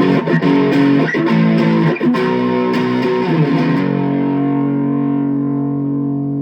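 Kramer electric guitar played through a Boss Katana Mini amp on its Brown high-gain setting, with the second pickup-selector position: a few distorted chords are struck, then the last one, about three and a half seconds in, is held and left to ring.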